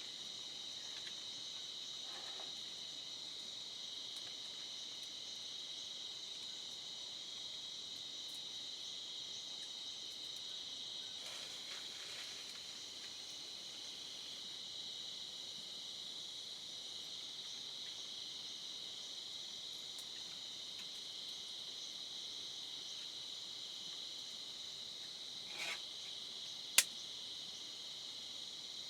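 Steady insect chorus: a continuous high-pitched trill that does not vary. A short sharp click sounds once near the end.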